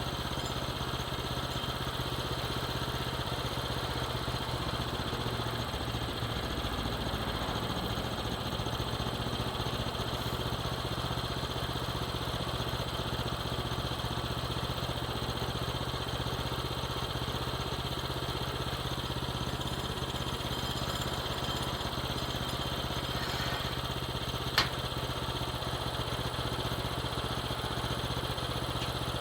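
Small gasoline engine of a sawmill running steadily at an even speed, with one sharp click about 25 seconds in.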